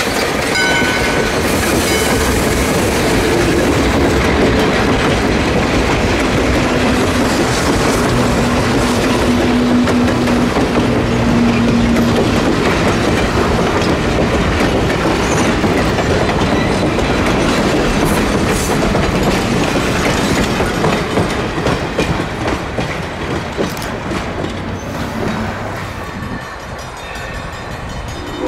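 Steam-hauled passenger train of vintage coaches passing close by, its steel wheels clattering over the rail joints in a steady, loud rumble that eases slightly near the end.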